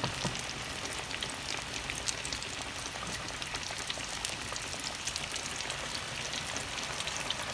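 Flour-breaded chicken thighs frying in hot vegetable oil in a frying pan: a steady crackling sizzle with many small pops.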